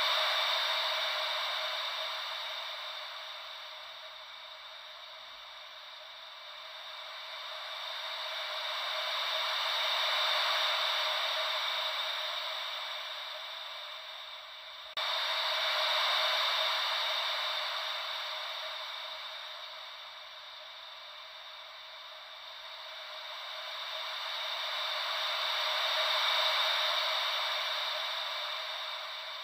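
Ocean wave sound as a steady hiss of white noise, swelling and fading slowly every ten seconds or so, with a sudden jump in level about halfway through.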